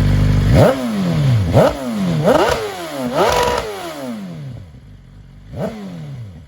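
2021 BMW S1000RR's inline-four engine through a full titanium Akrapovič Evolution exhaust, idling and then blipped in four sharp revs about a second apart, the last held briefly, each falling quickly back. The engine then grows fainter, with one more quieter rev near the end.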